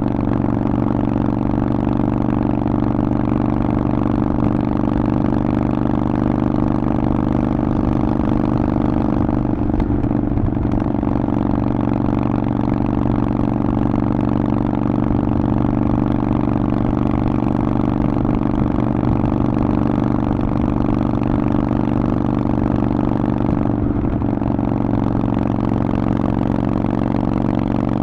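Harley-Davidson Forty-Eight's 1200 cc air-cooled V-twin running through a Vance & Hines exhaust, holding a steady engine speed throughout.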